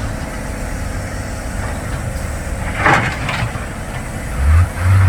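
Dump truck diesel engine labouring on a muddy track, with a brief hissing burst about three seconds in and the engine note swelling louder near the end.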